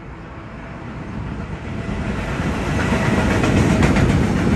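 A train approaching on the track, its rumble growing steadily louder, with wheels starting to clatter over the rails near the end.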